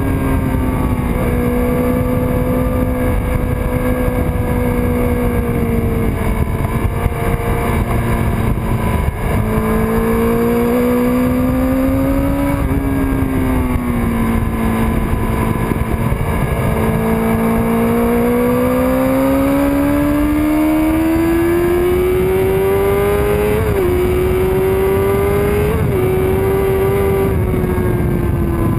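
1999 Kawasaki ZX-6R's inline-four engine running hard on a track lap, heard from an onboard camera with heavy wind rush. The engine note rises and falls with the throttle, climbs steadily for several seconds in the second half, and dips sharply twice near the end.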